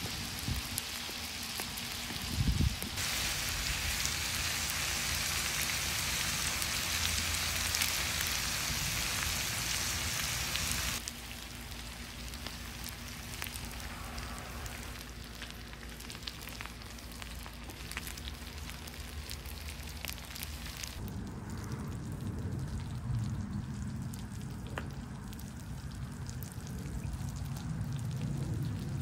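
Hamburger buns and chopped beef sizzling on a flat-top griddle. The hiss is loud and steady, then drops sharply about eleven seconds in to a quieter sizzle with scattered crackles. In the last eight seconds the hiss mostly fades and a low rumble takes over.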